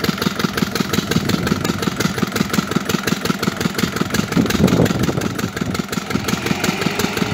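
Massey Ferguson 260 tractor's diesel engine running with a fast, even firing beat, swelling briefly louder a little past the middle.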